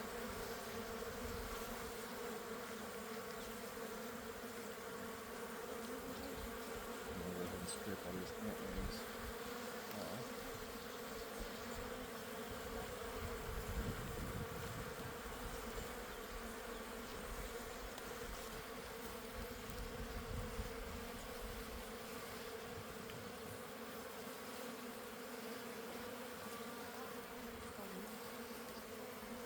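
Honeybees buzzing around an opened hive, a steady hum throughout, with some low rumbling about halfway through.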